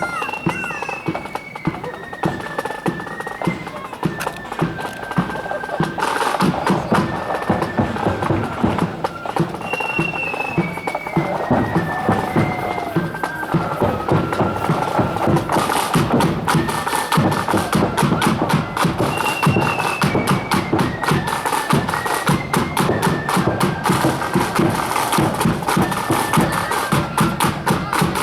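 Marching flute band playing a tune: high flutes carry a stepping, descending phrase that repeats about every nine or ten seconds, over rapid snare and bass drumming. The drumming grows louder and denser about six seconds in.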